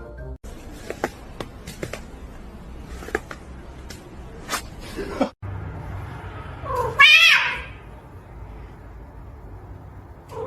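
A cat lets out one loud, drawn-out yowl about seven seconds in, after a stretch of small clicks and knocks; another call begins near the end.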